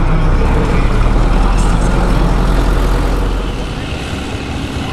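Diesel tractor engine running loud under load on a tractor pull. Its deep rumble falls away about three and a half seconds in.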